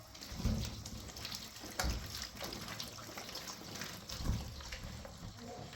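Water running or splashing, with four dull thumps and a few light clicks.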